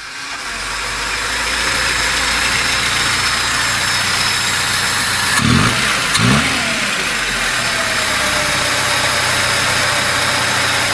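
VAZ 2102 (Zhiguli) four-cylinder petrol engine running steadily, with two brief changes in engine speed about halfway through.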